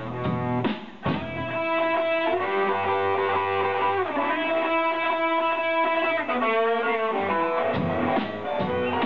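Amateur rock band playing live: electric guitar with bass and drums. Drum hits and strumming give way about a second in to long held guitar chords, and the rhythmic strumming and drums come back near the end.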